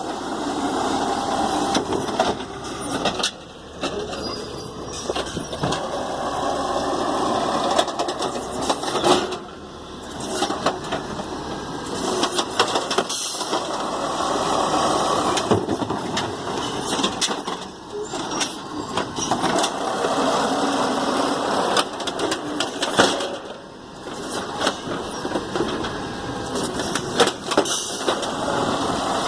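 Garbage truck engine running as it works along a line of trash containers, its level rising and falling every few seconds, with scattered clanks and knocks.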